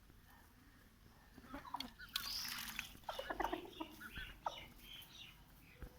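Aseel chickens clucking in a quick run of short calls starting about a second and a half in, with a brief rustle of movement among them.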